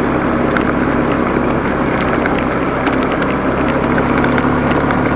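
Motorcycle engine running at a steady speed under road and wind noise, with scattered small knocks and clicks.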